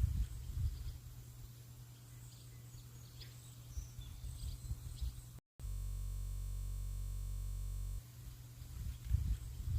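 Faint birds chirping over outdoor ambience with low rumbling gusts of wind on the microphone. About five and a half seconds in the sound drops out briefly, and a steady low electronic hum takes over for a couple of seconds before the birds and wind return.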